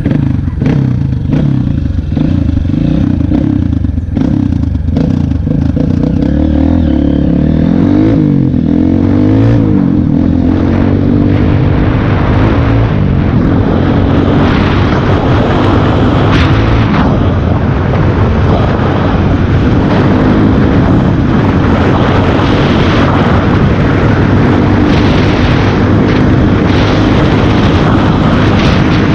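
Honda CRF230F's single-cylinder four-stroke engine running under way on a dirt road, its pitch rising and falling around eight to ten seconds in, then holding steadier at higher speed. A hiss of wind and road noise grows louder from about ten seconds in.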